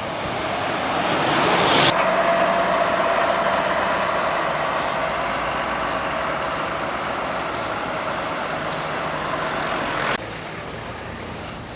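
Road traffic: motor-vehicle noise builds up loudly for about two seconds, then runs steadily with a faint engine hum, and drops off abruptly near the end.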